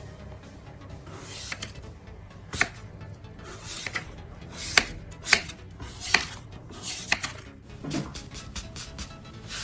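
A series of about ten sharp, irregular cutting or crunching strikes, the loudest near the middle.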